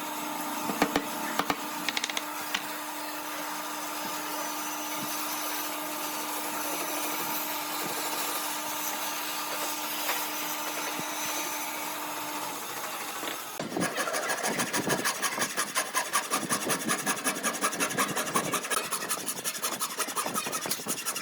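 Wood being worked with tools: a steady whirring tool sound with a constant hum for about the first thirteen seconds, then fast, even back-and-forth rasping strokes on wood.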